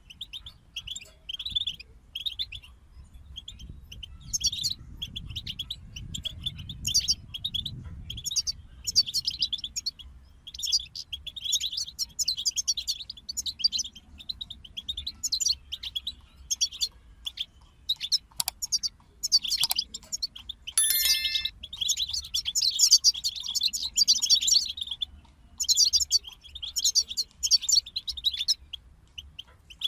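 European goldfinches singing: a run of fast, twittering and chirping phrases broken by short pauses, with a brief steady whistled note about two-thirds of the way through.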